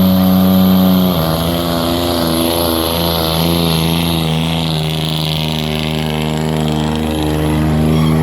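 Modified diesel pickup engine at high revs under full load, pulling the sled. The pitch drops about a second in, then holds steady and climbs slightly near the end.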